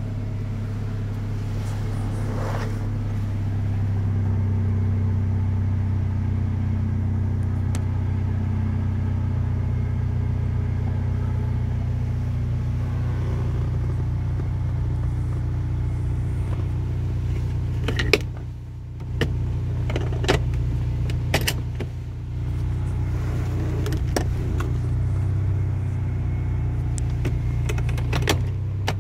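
Honda B18 four-cylinder engine of a 1994 Acura Integra running steadily, heard from inside the cabin. Several sharp clicks come over it about two-thirds of the way in and again near the end.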